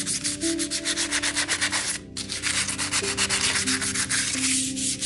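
Hand-forged, hammer-textured steel being sanded in fast, continuous scraping strokes, with a brief break about two seconds in. This is the finishing stage that brings out the hammered texture and the seams.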